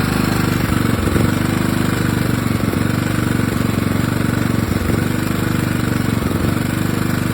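maXpeedingrods 3500W four-stroke petrol inverter generator running steadily.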